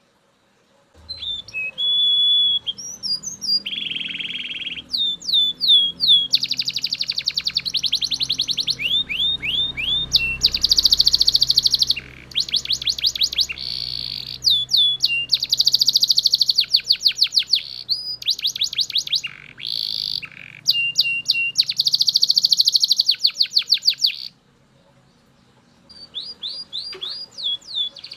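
Belgian canary singing: fast trills of rapidly repeated high notes in phrases of a second or two, with short gaps and a pause of about two seconds near the end.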